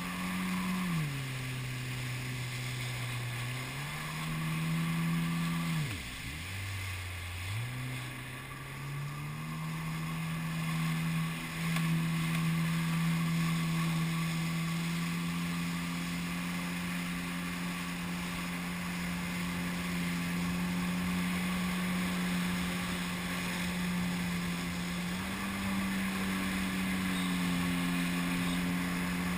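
Jet ski engine running under way, its pitch changing with the throttle: it eases off about a second in, picks up again, drops briefly to a low idle around six seconds in, then climbs back and holds a steady cruising speed, stepping up slightly near the end.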